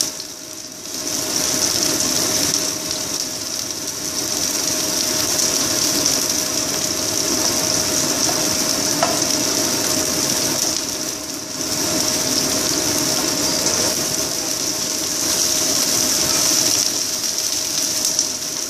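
White onions frying in hot oil in a pan, a steady sizzle that dips briefly twice, with a steady hum beneath it.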